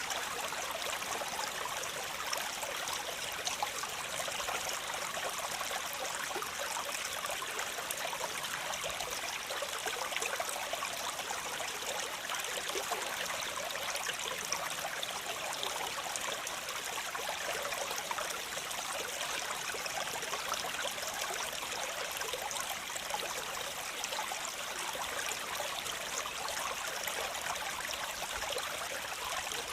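Waterfall: water falling and splashing in a steady, unbroken rush, bright and with little deep rumble.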